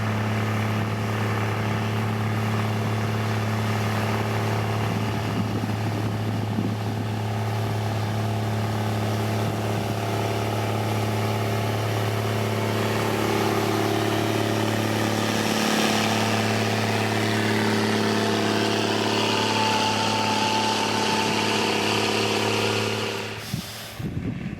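Heavy diesel engine of a road-construction machine running steadily at a constant speed, with a low, even hum. It cuts off abruptly near the end.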